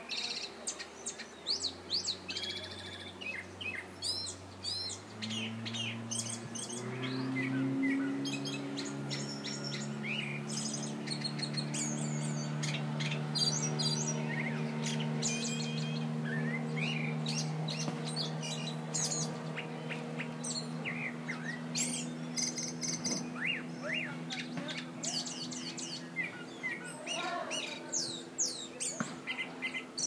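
Bird singing a rapid, ever-changing run of whistles, chirps, rising sweeps and clicks, which the uploader takes for a mockingbird mimicking many other birds. Under it a low steady hum comes in about five seconds in, climbs briefly and then holds.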